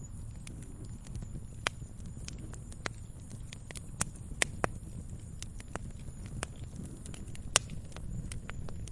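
Wood fire crackling in a fireplace: irregular sharp pops and snaps, several of them louder, over a steady low rumble of the burning fire.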